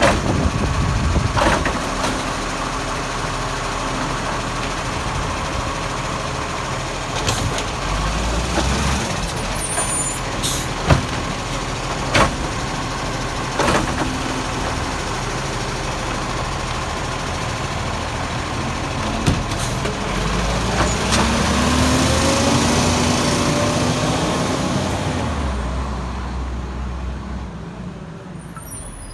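Garbage truck's engine running, with several sharp knocks over the first half. About twenty seconds in the engine pitch rises, then the sound fades away near the end.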